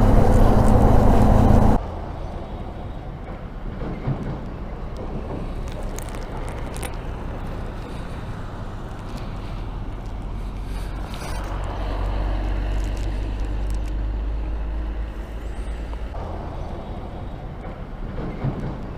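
Motorcycle riding noise: engine hum with wind on the microphone, which drops abruptly to a quieter, steady hum about two seconds in.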